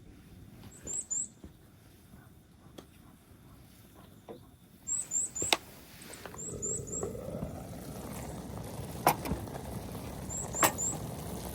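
A small bird calls several times in quick sets of two or three high chirps. A few sharp clicks stand out as the loudest sounds. From about halfway through, a low rumble builds and holds.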